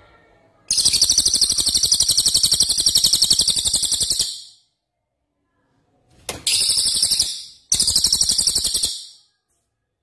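Songbird singing three rapid, very high-pitched trills: one long trill of about three and a half seconds, then two shorter ones a little over a second each, near the end.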